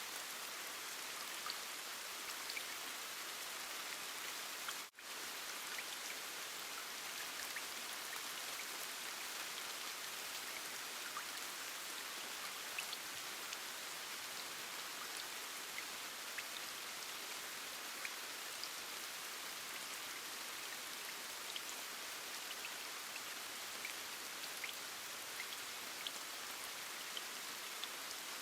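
Steady rain falling, with scattered individual drop ticks over an even hiss. About five seconds in, the sound briefly drops out and comes back.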